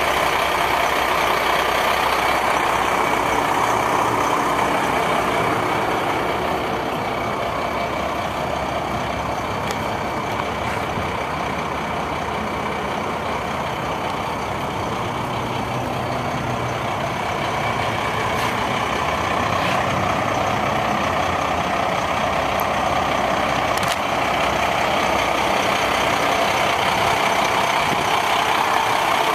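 Heavy diesel truck engine, the Ford L8000's 8.3 litre Cummins, running steadily at idle.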